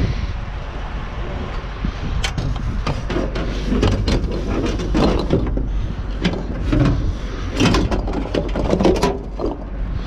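Scrap being handled in a dumpster: a run of knocks and short clanks from about two seconds in, over wind buffeting the microphone.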